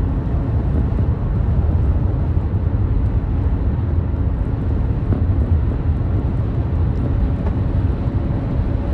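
Steady road and tyre noise heard from inside a car's cabin while it cruises under cruise control, deep and even with no changes.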